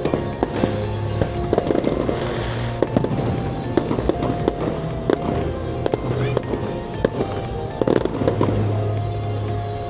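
Fireworks going off in quick succession, sharp bangs and crackles, over music playing throughout.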